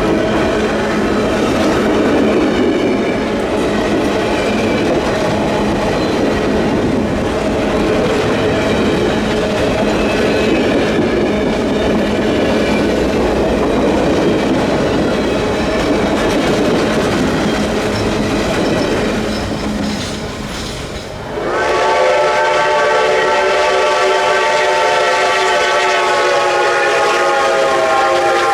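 A passenger train rolling past with a steady rumble and wheel clatter on the rails. About 21 seconds in, this gives way to Reading & Northern 4-8-4 2102's steam whistle sounding one long chime of several notes together, held for about seven seconds.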